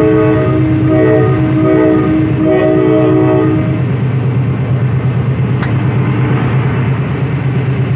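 Train horn sounding a chord in a string of repeated blasts, stopping about four seconds in, as a passenger train runs past on the next track. Under it, the steady low rumble of the moving trains on the rails.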